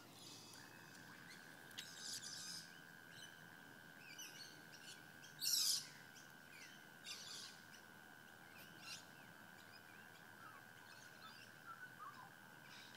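Faint birds chirping, with short calls scattered through, a louder one about five and a half seconds in, and a few falling calls near the end, over a steady high-pitched tone.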